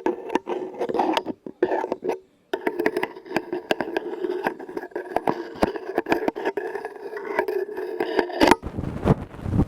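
Quick, irregular tapping and scratching on objects close to the microphone, over a ringing hum. Near the end the taps give way to a loud low rushing and rumbling.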